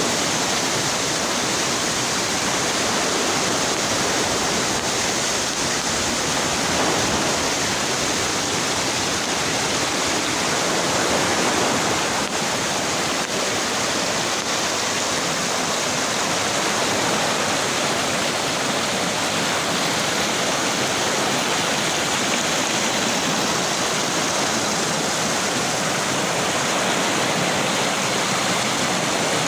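Waterfall: water rushing steadily with no change in level.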